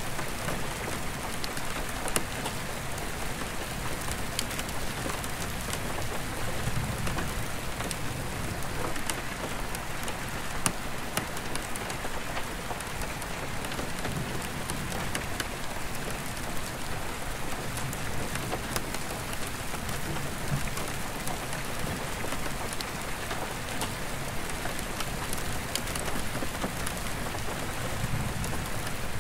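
Steady rain drumming on an attic roof skylight, with many sharp drop ticks on the glass. Soft low rumbles of distant thunder swell up now and then underneath.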